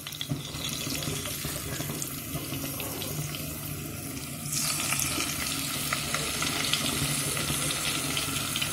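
Marinated chicken pieces frying in hot oil and butter in a pan: a steady sizzle with small crackles, which gets louder about four and a half seconds in as another piece goes into the pan.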